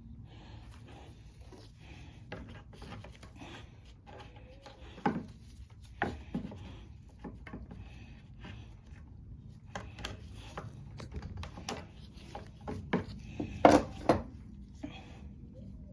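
Hands fitting small parts, an inline fuel valve and rubber fuel line: scattered clicks, taps and rubbing, with the loudest knocks about 13 to 14 seconds in.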